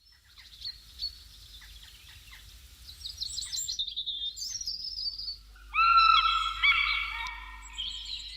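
Wild birds chirping and singing with quick high notes. From about six seconds a louder bird call joins in: a run of clear ringing notes, each a little lower than the one before.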